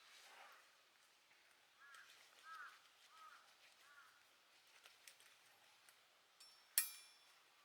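Faint bird calls outdoors, a series of short repeated notes, with one sharp click near the end.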